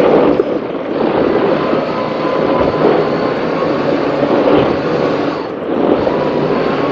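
Racing powerboat's engines running hard under heavy wind and water rush as the boat runs through big swells, the roar dipping briefly twice.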